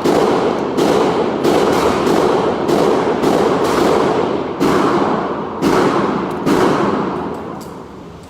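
Gunshots at a shooting range: about a dozen shots fired at irregular intervals, sometimes two in quick succession, each trailing off in a long echo. The firing stops about seven seconds in.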